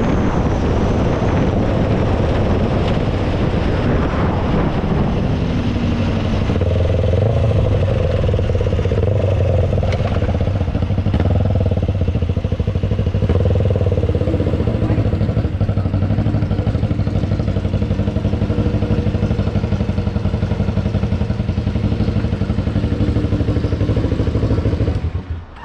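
Kawasaki Ninja motorcycle engine with wind rush, heard from the rider's position. It runs at road speed, then eases off to low revs and idles as the bike rolls to a stop, and cuts out near the end as it is switched off.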